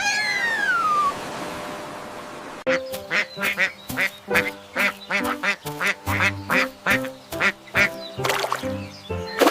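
A duck quacking over and over in quick, even calls, set over a light background tune. Before it, about the first second holds a falling, whistle-like glide.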